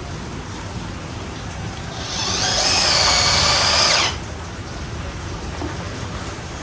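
An electric power tool, likely a drill, runs in one burst of about two seconds with a steady high whine, then stops abruptly.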